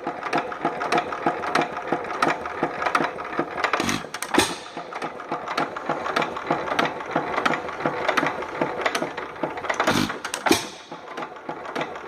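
Economy 2½ hp hit-and-miss engine running: a fast, steady mechanical clatter as it coasts, broken by loud bangs as it fires, two at a time, about four seconds in and again about ten seconds in.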